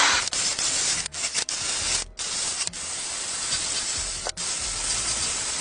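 Drill-driven wire brush scrubbing rust off a sheet-steel exhaust heat shield: a steady, loud scouring noise with a few brief breaks where the brush comes off the metal.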